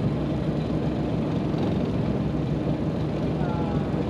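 Steady low drone of a fishing boat's engine running at idle.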